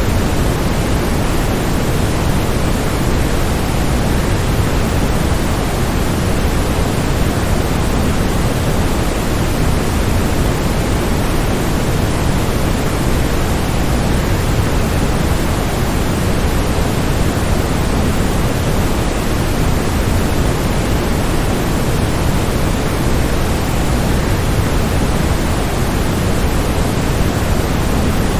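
Waterfall white noise: a steady, even rush of falling water, fullest in the low end, with no breaks or changes.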